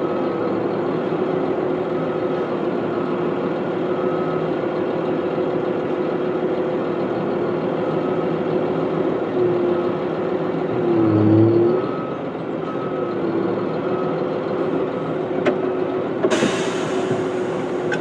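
Heavy diesel engine running steadily, with a backup alarm beeping about once a second in stretches. About eleven seconds in, the engine pitch dips and recovers under load. Near the end there is a short burst of hiss.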